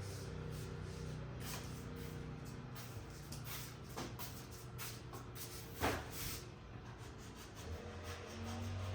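A few knocks and clatters of household objects being handled, the loudest about six seconds in, over quiet background music.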